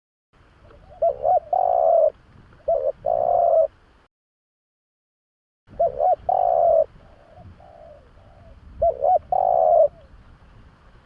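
Spotted dove cooing its song four times, each phrase two quick short notes followed by a longer held coo. The recording drops to dead silence twice between phrases.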